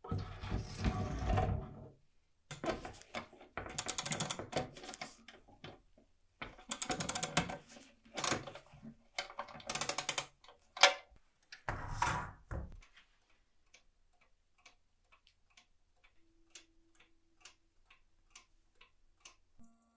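Restored 1950s German mechanical clock being wound: four bursts of rapid ratcheting clicks from the winding mechanism. It then ticks faintly and evenly, about two to three ticks a second, showing that the movement is running.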